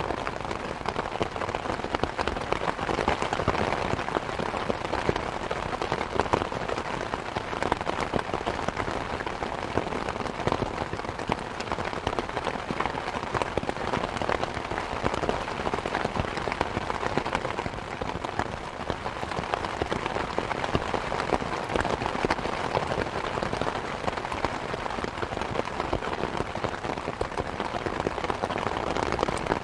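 Steady rain mixed with the dense crackling of a wood fire in a fireplace: many small pops and clicks over an even wash of rain.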